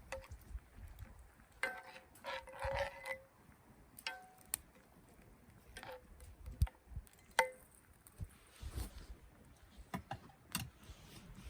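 Scattered light clinks and knocks, a few of them with a brief ringing tone.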